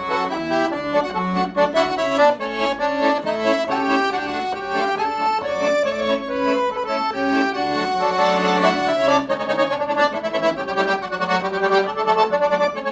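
Forró music led by an accordion, playing a lively melody over sustained chords.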